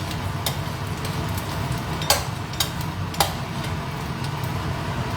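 Ginger stir-frying in oil in a wok: a steady sizzle over a low rumble, with several sharp knocks of the spatula against the pan.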